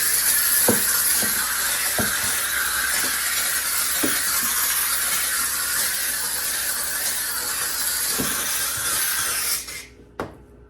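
McCulloch steam cleaner's nozzle jetting steam with a steady loud hiss, with a few light knocks, then the steam cuts off sharply near the end as the trigger is released, followed by a single click.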